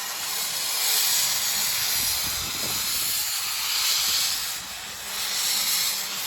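Steady hiss of steam like a steam locomotive's, swelling and easing slightly.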